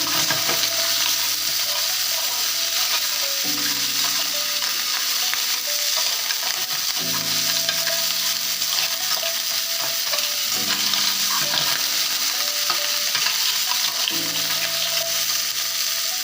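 Shrimp and calamari frying in hot oil in a pan, sizzling steadily.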